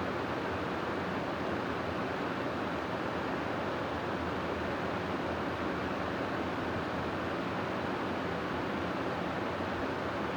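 Steady rushing wind, an even unbroken noise that holds the same level with no gusts or pauses.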